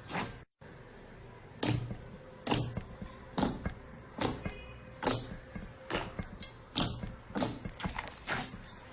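Slime being pressed and poked by hand, giving a sharp sticky pop or crackle about once a second.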